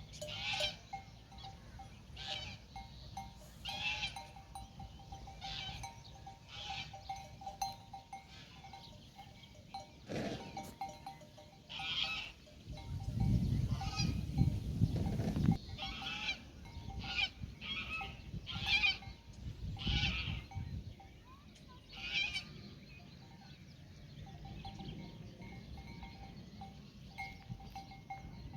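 Bells on grazing livestock clanking irregularly, several strokes a second at times, as the animals move. A louder low rumble comes in about halfway through for a few seconds.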